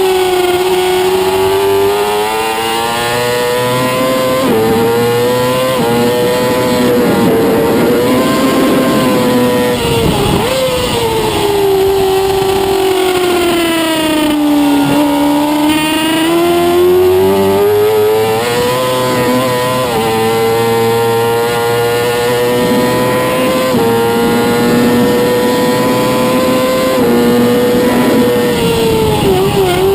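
Racing motorcycle engine heard onboard at full race pace: it revs up in steps with a sudden drop at each upshift, falls away slowly in the middle while slowing for a corner, then pulls up through the gears again before dropping off near the end.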